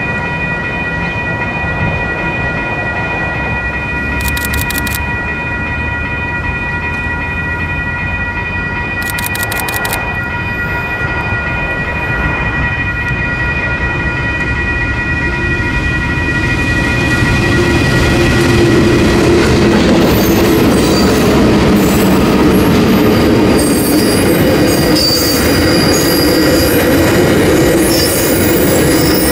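Diesel-electric locomotives of a loaded coal train approaching and passing, growing louder about two-thirds of the way through, then coal wagons rolling past with wheel squeal. A steady high multi-note tone sounds through the first half and fades out around the middle.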